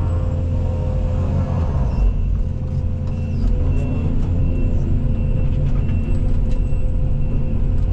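Case CX220E excavator's diesel engine running steadily. From about two seconds in, a high warning beeper sounds about twice a second, with a few sharp knocks along the way.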